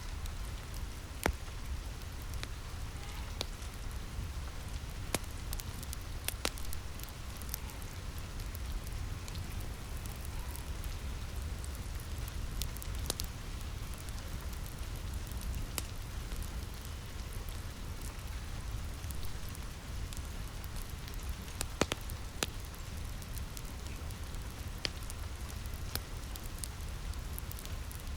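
Steady rain falling, mixed with a wood fire crackling, its sharp pops scattered at irregular moments over a steady low rumble.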